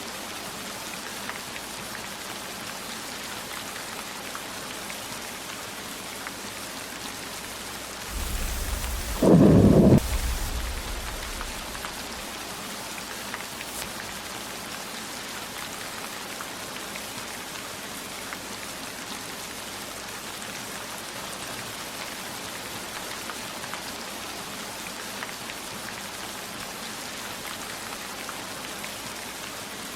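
Steady heavy rain, with one clap of thunder about eight seconds in: a low rumble that swells to a loud crack around nine to ten seconds and fades out a couple of seconds later.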